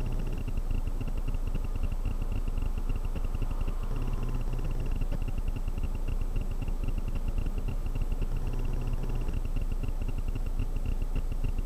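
Car engine idling while stopped, heard from inside the cabin: a steady low rumble with a faint, fast, even ticking above it.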